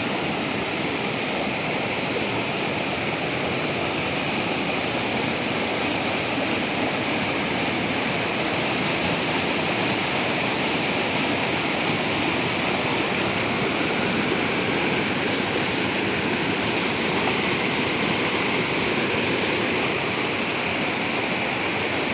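A river flowing: a steady, even rush of water that does not change or break.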